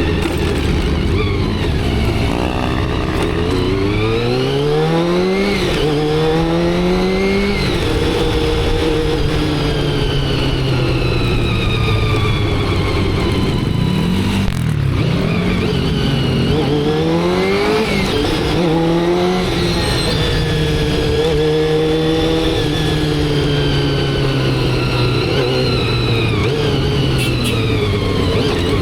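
Motorcycle engine pulling through the gears, its pitch climbing and then dropping at each shift several times, then running at a fairly steady cruise in the last third.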